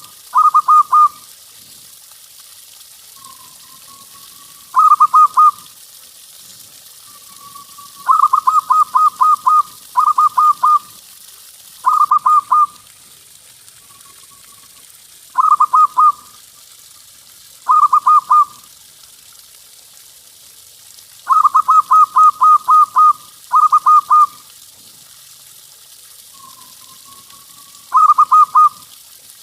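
Zebra dove (perkutut) cooing: short bursts of rapid, evenly spaced coo notes, each burst about a second long, repeated every couple of seconds. A few bursts are led in by a soft rising note.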